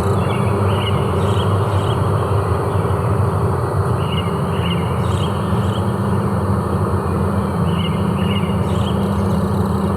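Forest ambience: a steady, low rushing noise throughout, with small birds giving short chirps in little clusters every few seconds.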